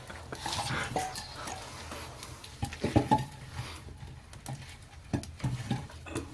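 Firewood in a wood-fired agungi (traditional Korean ondol firebox) being handled and poked: scattered knocks, clatter and crackles, with the sharpest knocks about three seconds in and again around five seconds in.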